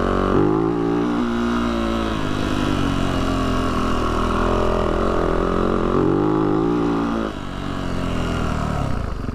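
Yamaha YZ450F dirt bike's single-cylinder four-stroke engine running under throttle on the trail, its pitch rising and falling as the throttle is worked. About seven seconds in it drops to a lower, steadier note.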